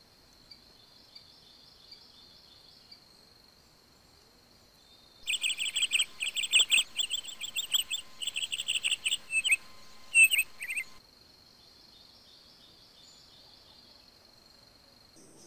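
A songbird sings a rapid run of chirps for about six seconds, starting and stopping abruptly partway through. Under it runs a steady high-pitched insect trill, like a cricket.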